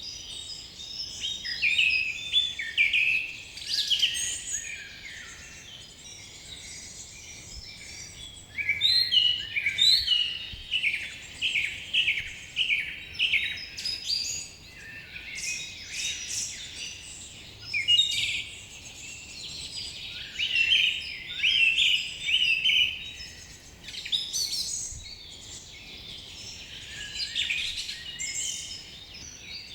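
Several songbirds singing and calling at once in a dense chorus of quick chirps and trills, with a quieter lull about five to eight seconds in.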